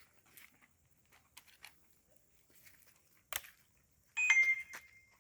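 Bonfire crackling: scattered small pops and snaps, one sharp crack a little past three seconds in, then a brief high squealing whistle near the end.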